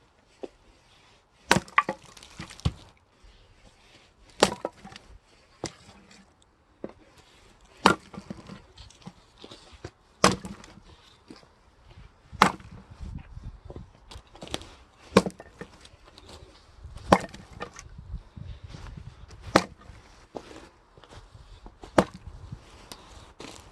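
An axe splitting firewood logs: about ten sharp cracks, one every two to three seconds, with lighter wooden knocks between the strikes.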